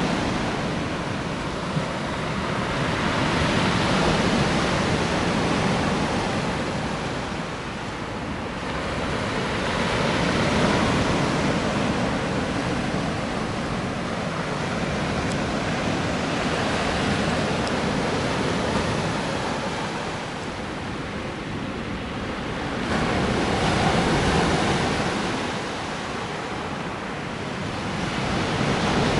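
Black Sea surf: waves rolling in and breaking, a steady rush that swells and ebbs every several seconds.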